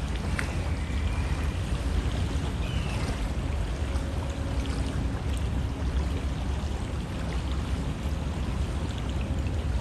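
River water flowing steadily, a constant rushing with a deep low rumble.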